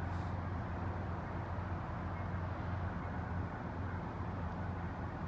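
An engine idling, a steady low hum with no change in pitch or level.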